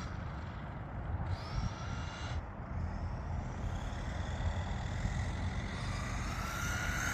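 An RC car's electric motor whines and rises in pitch as the car speeds up on a high-speed run. Under it runs a steady low rumble of wind and road noise, and the sound grows louder toward the end.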